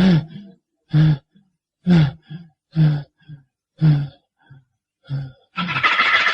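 A man's voice giving short grunts about once a second, six times, each falling in pitch, as with repeated effort. Near the end comes a longer, noisier sound that fades away slowly.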